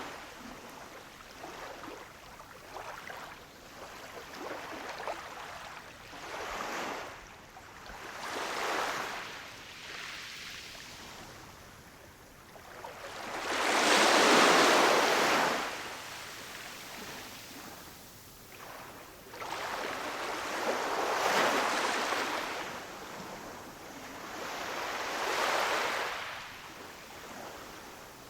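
Ocean waves washing onto a shore, each one swelling and falling away every few seconds, with the biggest wave about halfway through.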